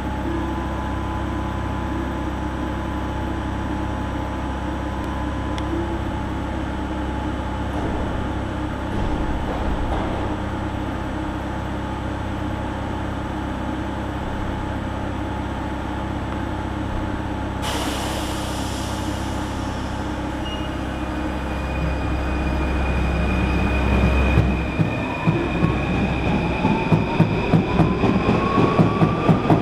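Paris Métro MF01 train standing at the platform with a steady low hum, a sharp hiss of air about 18 seconds in, then pulling away: the traction motors' whine rises in pitch and the wheels begin to clatter over the rail joints, faster and louder toward the end.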